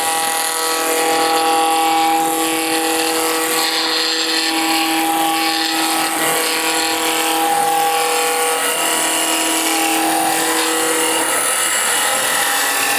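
Wood lathe running while a turning tool cuts a spinning beech blank down to a cylinder: steady cutting noise with a pitched ring of several tones over it, the ring fading near the end.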